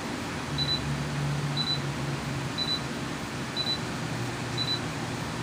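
Short, high electronic beeps repeating about once a second, from the model airliner's electric ducted fan speed controllers armed with the throttle at zero, over a steady low hum and hiss.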